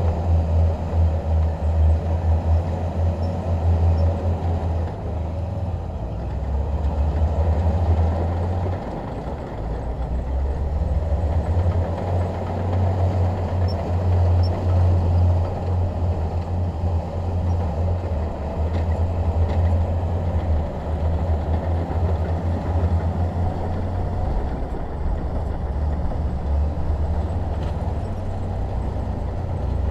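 Bulldozer's diesel engine running with a strong, steady low hum that rises and falls in level as the machine works.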